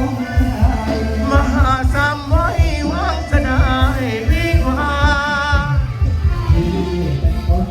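Loud amplified live band music with a heavy, repeating bass-drum beat, and a singer holding wavering, ornamented notes in the middle.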